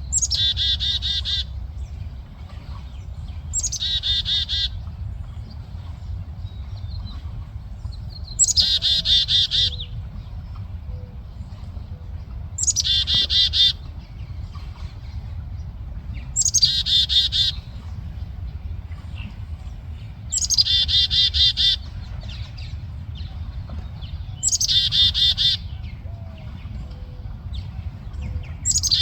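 A songbird singing the same short phrase over and over, about every four seconds: each phrase lasts about a second, opening with a high falling note and running into a rapid trill. A steady low rumble runs underneath.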